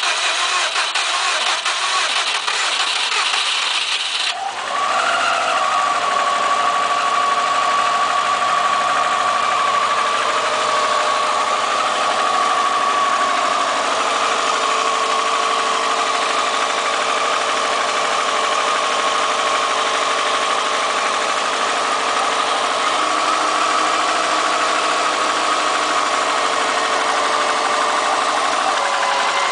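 2002 Subaru WRX turbocharged flat-four cranking on the starter for about four seconds, then catching, flaring up briefly and settling into a steady idle. The engine has low compression with a misfire code on cylinders 1, 2 and 3, and the owner suspects piston slap rather than rod knock.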